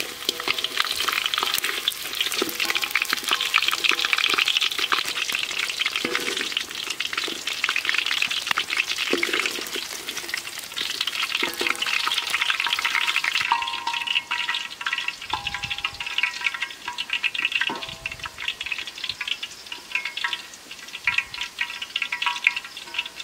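Chicken pieces frying in hot oil in a steel wok, a dense sizzle and crackle with a spatula scraping and stirring. A little over halfway through the sizzle drops to a quieter crackle.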